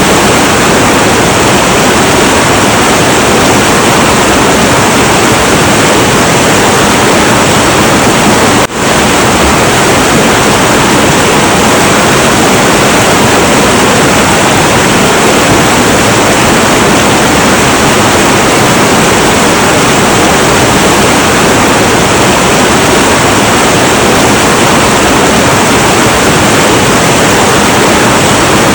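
Heavy, turbulent river water rushing in a steady, dense roar, with a brief dip in level about nine seconds in.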